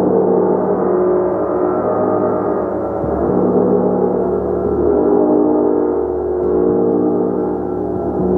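A large gong played continuously with soft, repeated mallet strokes, making a dense wash of many overlapping ringing tones. The sound swells and ebbs, with a fresh low bloom every second or two.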